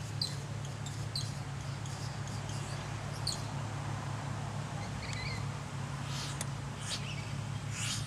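Short high bird chirps, several scattered through, with a few brief scratchy sounds near the end, over a steady low hum.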